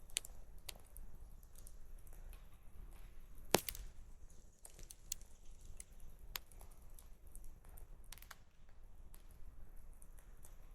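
Wood campfire crackling: irregular small pops and ticks, with one much louder sharp crack about a third of the way in.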